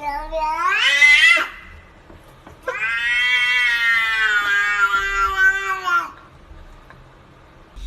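Domestic cat giving two long, drawn-out meows, a caterwaul: the first rises in pitch as it ends, and the second, about three seconds long, sinks slightly in pitch.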